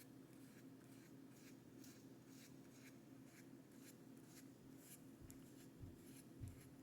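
Faint, repeated brush strokes rubbing on sketch-pad paper, a couple a second, over a low steady hum. Two soft low thumps come near the end.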